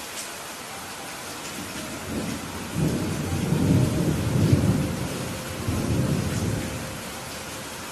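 Steady heavy rain falling, with a low roll of thunder that builds about two seconds in, rumbles in two swells, and dies away near the end.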